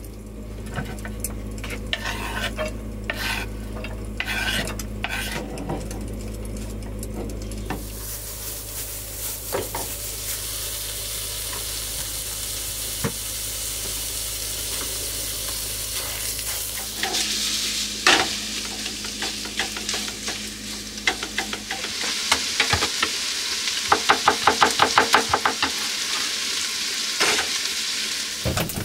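Knife scraping and tapping chopped onion on a wooden cutting board. From about eight seconds in, onion and minced meat sizzle as they fry in a pan, with stirring strokes in the pan and a quick run of them near the end.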